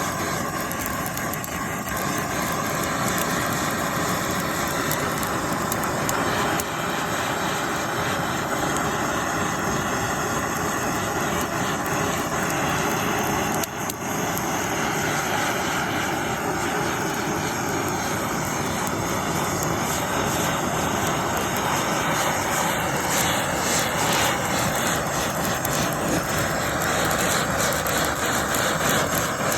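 Blowtorch flame running steadily, a constant rushing noise as it chars pine cladding.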